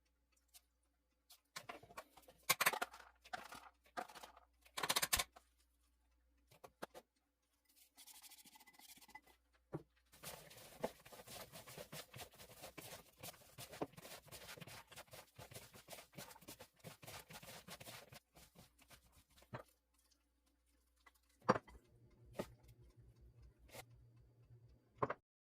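Hands-on kitchen prep for Korean radish salad: scattered knocks and clicks, then about eight seconds of dense rustling and scraping from about ten seconds in, with a few more knocks near the end.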